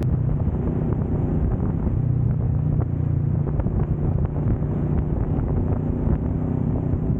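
Kawasaki Vulcan S 650 parallel-twin engine running steadily at highway cruising speed, with wind rushing over the microphone.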